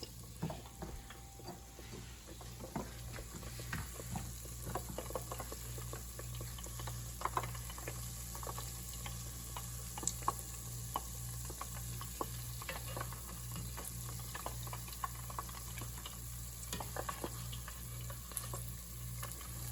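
Hot oil sizzling steadily with scattered crackles and pops as food deep-fries, over a low pulsing hum.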